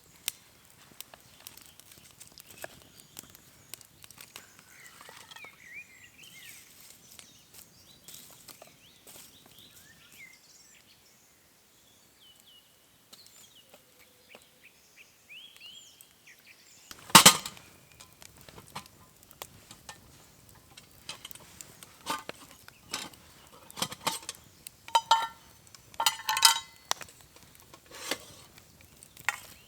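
Small birds chirping faintly. About two-thirds of the way through comes a loud knock, then a run of sharp clinks and rattles, some of them ringing, as metal camp cookware and utensils are handled.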